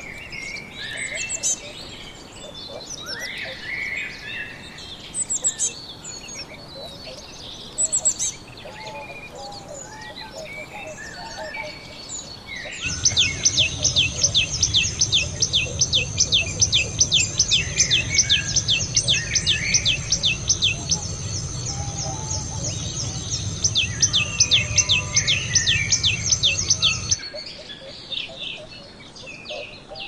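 Small songbirds chirping with varied short calls. About halfway, a common tailorbird starts singing one loud, sharp, high note over and over, about four times a second, with a short break, over a low steady hum. Near the end the song stops and scattered chirps return.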